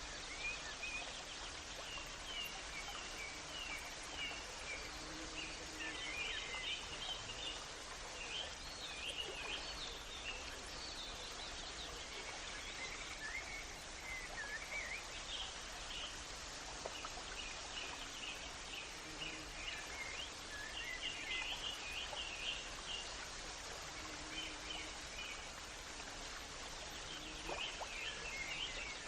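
Small birds chirping and twittering in short, scattered runs of calls over a steady soft hiss of background noise.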